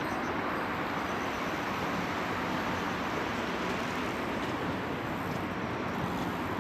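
Steady city traffic noise, an even rushing hiss without distinct events.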